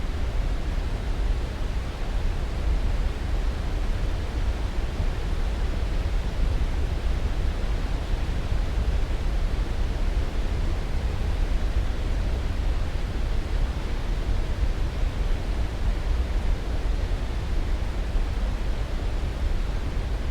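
Steady sleep-aid noise: an even, constant rush with most of its weight in the bass, thinning toward the treble, unchanging throughout.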